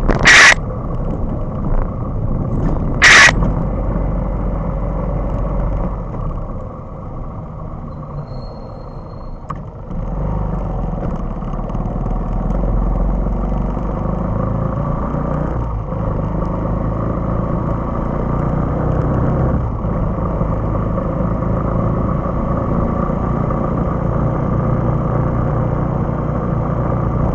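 Motorcycle ride heard from the bike: a steady engine and road rumble that eases off for a few seconds partway through, then picks up again. Two short, very loud blasts sound in the first few seconds.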